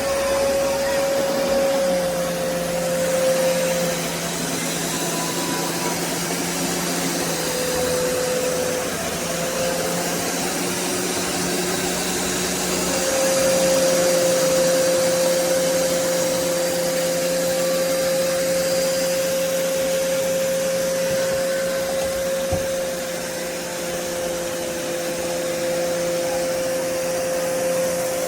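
BISSELL Revolution HydroSteam Pet carpet cleaner running steadily: a motor drone with a high whine whose pitch sags slightly for a few seconds and then steadies again.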